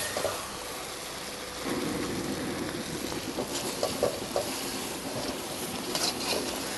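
Thick gravy sizzling and bubbling in a steel kadai while a ladle stirs it, with a few brief scrapes of the ladle against the pan.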